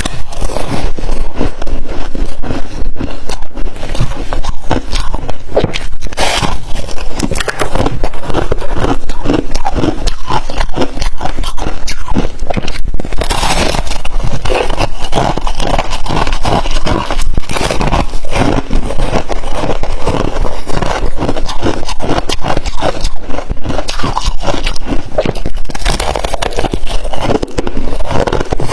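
Freezer frost crunching loudly and without pause, close to the microphone, as it is bitten and chewed.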